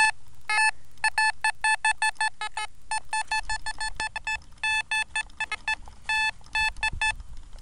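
Metal detector giving a good target signal: quick repeated beeps at one steady pitch, several a second, as the coil sweeps over a buried coin that reads like a dime.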